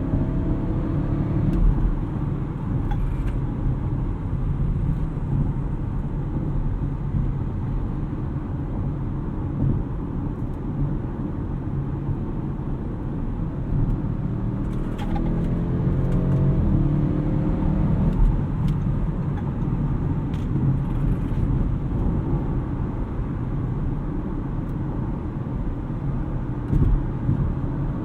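Audi RS6 Avant's twin-turbo V8 running with steady road noise while driving. The engine pitch rises under acceleration at the start and again about halfway through.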